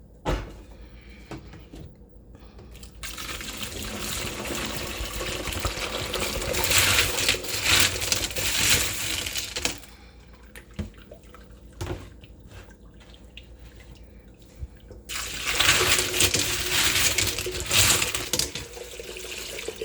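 Tap water running onto tumbled rocks in a strainer, rinsing off the grit slurry from a rock-tumbler barrel, in two spells with a pause between, and a few sharp clicks of stones.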